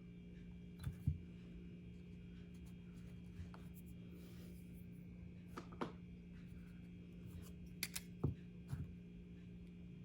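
A few light clicks and taps, scattered and irregular, over a steady low electrical hum.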